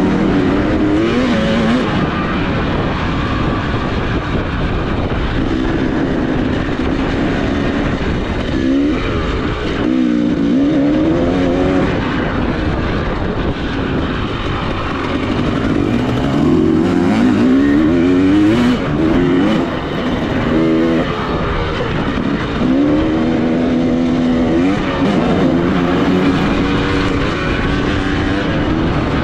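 Dirt bike engine on a motocross track, revving up through rising pitch runs again and again, dropping back as the throttle is shut or a gear changes, with wind and track noise underneath.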